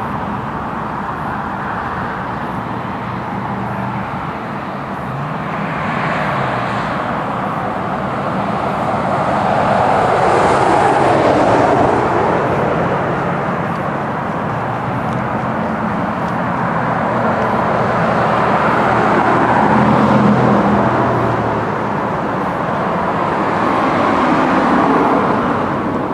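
Outdoor traffic noise: vehicles passing one after another, each swelling and fading over a steady background rush.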